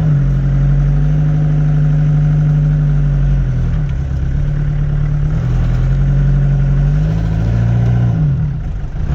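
Ford Transit Mk2 van's engine running as the van drives off, its pitch dipping and picking up again about four seconds in, then dropping and rising again near the end.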